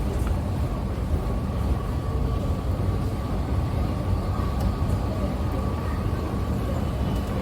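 Bangkok MRT Blue Line subway train running: a steady rumble with a thin, steady whine over it.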